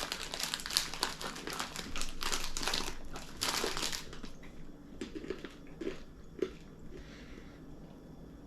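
Plastic snack packet of sugar-coated nuts crinkling as it is opened and handled, for about four seconds. Then it turns to quieter, sparse crunching.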